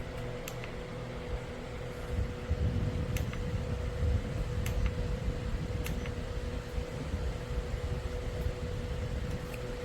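Orteen 9-inch portable rechargeable fan running with a steady hum and airflow noise; a stronger low rumble of moving air comes in about two seconds in.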